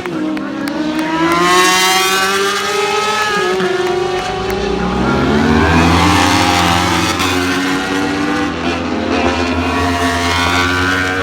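Several superbike race motorcycles at high revs, their engine notes overlapping and rising and falling as they change gear and pass by.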